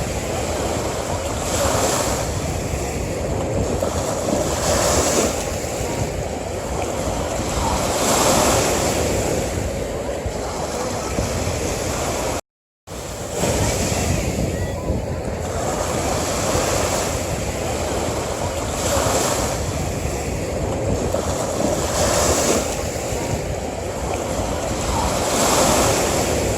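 Ocean surf washing onto a beach, a continuous rush that swells and eases about every three seconds. The sound cuts out completely for a split second a little before the halfway point.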